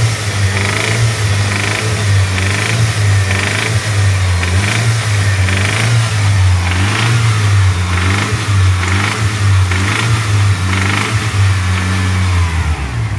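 Mitsubishi Lancer Evolution engine running, with a steady low hum and a higher-pitched noise that comes back about once a second. This is the engine noise the owner is trying to pin down.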